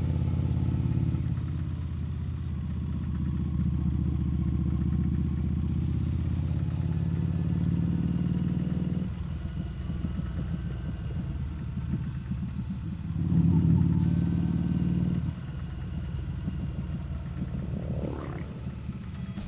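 Harley-Davidson Street Rod 750's V-twin engine running on the move, heard from the rider's position. It pulls steadily, eases off about nine seconds in, gets a brief burst of throttle a few seconds later, then settles back.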